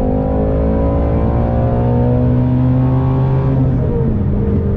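Ford Mustang Shelby GT350's 5.2-litre flat-plane-crank V8 running loud just after a hard pull, its engine note slowly falling in pitch and then stepping down lower near the end.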